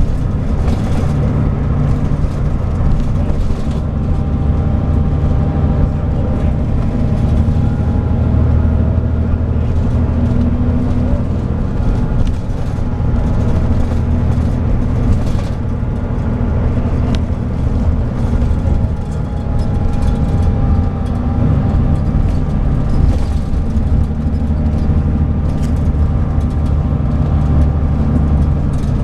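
Scania DSC9 diesel engine of a Scania K340IB coach running steadily, a continuous low drone with small slow changes in engine speed.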